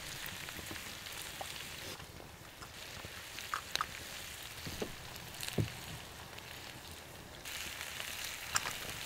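Peppers and onions frying faintly in a wok over a small wood fire: a steady low sizzle with a few scattered pops and crackles.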